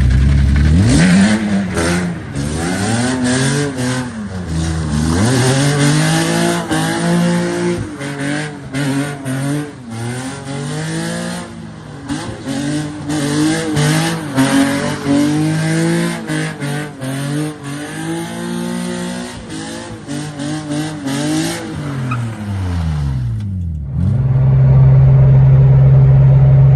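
Nissan 370Z's V6, which has a bad exhaust leak, revving up and down again and again, with rough noisy bursts over it, as in drift donuts. About 24 seconds in it changes abruptly to a steady, even engine drone.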